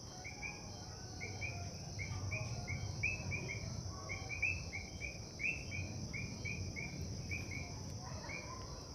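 Evening insect chorus: a steady high-pitched trill with many short chirps overlapping it, about three a second, over a low background rumble.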